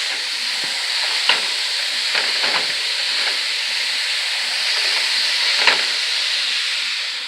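Ground beef sizzling in a pot on the stove while it is broken up with a utensil: a steady frying hiss with a few sharp clicks of the utensil against the pot.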